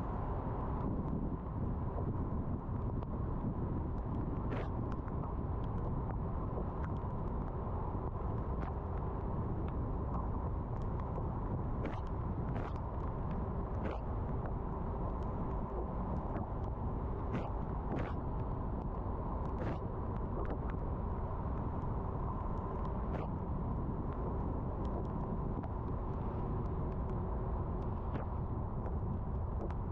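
Car driving on rain-wet roads: a steady hiss of tyre and road noise, with scattered sharp ticks throughout.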